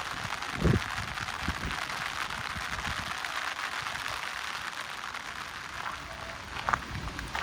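Steady summer rain falling, an even hiss of drops, with a few short low thuds, the loudest about a second in.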